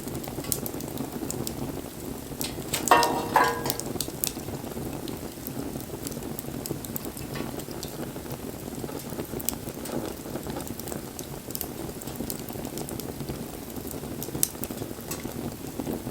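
Wood campfire burning with a steady crackle and scattered sharp pops. About three seconds in there is a short ringing sound lasting under a second.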